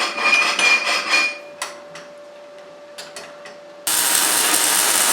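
Electric welding on steel: a crackling hiss for about a second and a half, a pause with a few clicks over the welder's steady hum, then another steady weld starting about four seconds in.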